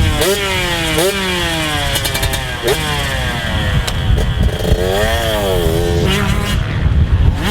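2019 KTM 125SX two-stroke motocross engine ridden hard, revs jumping up sharply and sagging again several times as the throttle is worked, then wavering up and down about five seconds in.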